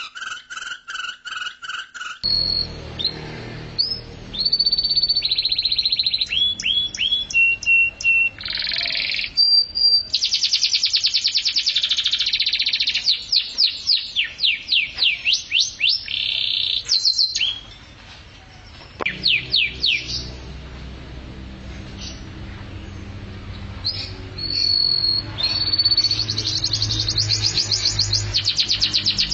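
Domestic canary singing a long song of rapid trills and quick repeated notes, with sweeping rising and falling notes. The song eases briefly past the middle, then picks up again with fast trills near the end.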